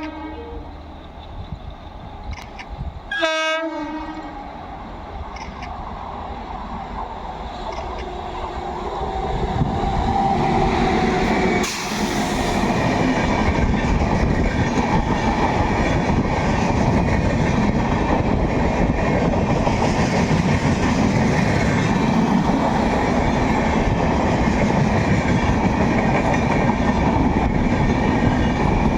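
Indian Railways WAP7 electric locomotive sounds one short horn blast about three seconds in. Then the express train comes up and passes at speed, with a loud steady rumble and clatter of wheels on rail from about ten seconds in.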